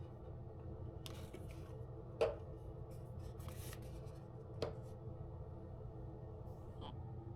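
Small objects being handled: brief rustling, with two light knocks, the first about two seconds in and the second a couple of seconds later. A steady low hum runs underneath.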